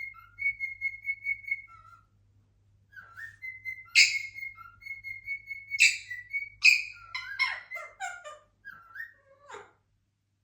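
Cockatiel whistling its song: a quick run of repeated notes on one pitch, then short rising whistles. From about four seconds in, several loud, sharp bird calls break in among the whistling before it stops near the end.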